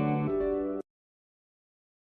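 Background music led by a guitar, playing sustained chords that cut off abruptly under a second in, leaving dead silence.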